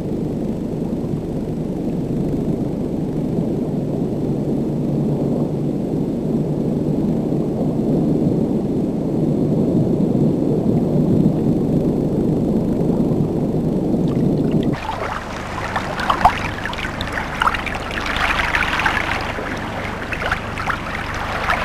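Steady, muffled low rush of water, then about two-thirds of the way through an abrupt cut to lighter water sloshing and splashing at the surface.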